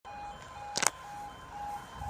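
Level crossing warning alarm sounding, an electronic tone pulsing on and off about twice a second. A sharp click just under a second in is the loudest sound.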